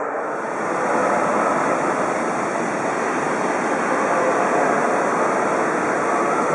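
Shinkansen train moving along the platform track, a steady rushing noise of wheels on rail and air.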